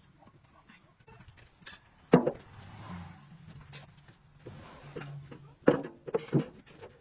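Irregular metal knocks from work on a truck's rear axle: one sharp, ringing knock about two seconds in and two more close together near the end, over a faint low hum.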